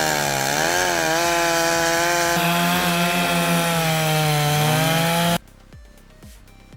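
Chainsaw running at high revs while cutting into a tree, the engine pitch dipping and recovering as the chain bites. It cuts off abruptly about five seconds in, leaving a faint steady beat.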